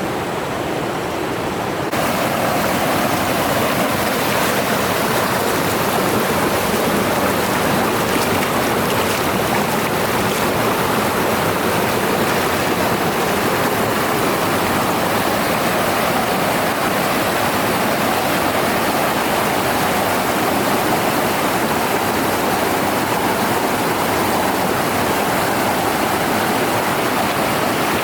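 Waterfall water rushing, a steady, dense roar of falling water that steps up in loudness about two seconds in and then holds even.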